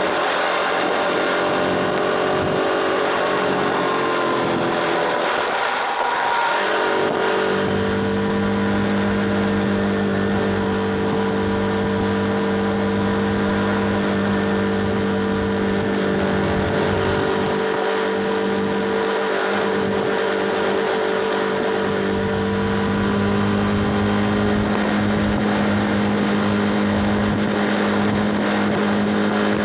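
KTM RC 390's single-cylinder engine riding on the expressway, its note sagging slightly over the first several seconds, then holding a steady pitch at cruising speed, over a constant rush of wind and road noise.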